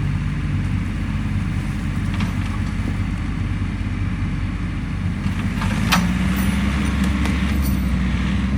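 Tractor engine running steadily, then working harder and louder from about six seconds in as it pushes against the fallen tree. A cluster of sharp cracks and snaps comes at the same time.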